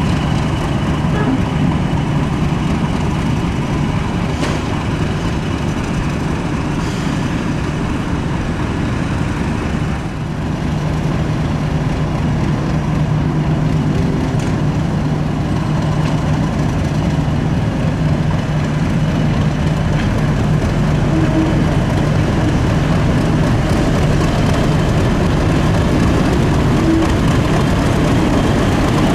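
Mainline diesel locomotive engine running steadily with a constant low hum, dipping briefly about ten seconds in.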